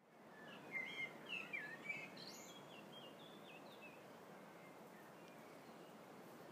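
Small birds chirping and singing in quick, warbling phrases, busiest in the first few seconds and then fainter, over a steady hiss of outdoor background noise.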